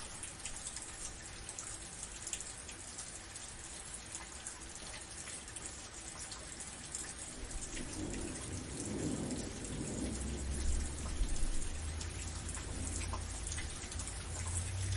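Steady rain pattering, with the fine ticks of individual drops. About halfway through, a low rumble of thunder builds and swells, loudest a few seconds later, then stays under the rain.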